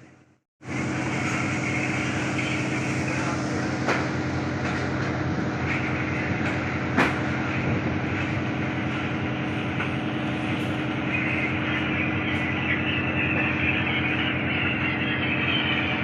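A steady engine drone with a constant low pitch, starting after a brief gap about half a second in, with a few sharp knocks, the clearest about four and seven seconds in.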